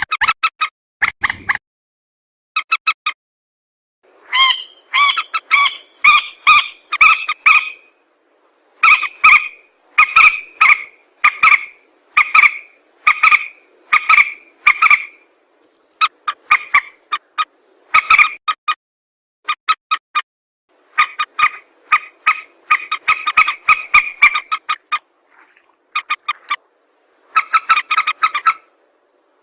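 Recorded lure call of a rail (burung mandar): loud, short, harsh calls repeated about two a second in series, with short pauses between the series.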